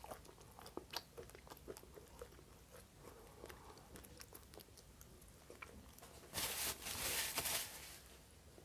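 Faint close-mic chewing of pizza, with small wet mouth clicks. About six seconds in, a breathy sucking noise lasts about a second and a half, the sound of sipping juice through a straw.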